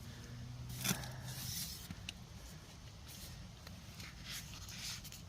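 Faint handling of camp cookware as a frying pan is set up on the stove: a soft knock about a second in, then scattered light scrapes and rustles.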